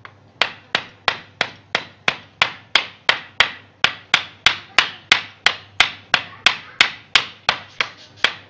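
A hammer driving nails into a wooden frame, struck steadily about three times a second.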